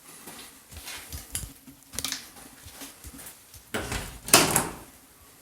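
Scattered knocks and light clatter, like objects being handled or doors and drawers moved, with a louder scraping clatter about four seconds in.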